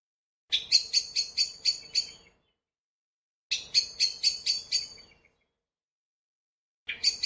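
Great spotted woodpecker giving rapid series of sharp, high 'kik' calls, about five notes a second, in three bursts separated by short silences.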